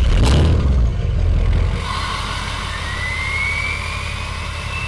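Diesel pickup truck engine revving hard for about two seconds, then settling into a steady rumble under a high turbocharger whistle that rises slowly in pitch.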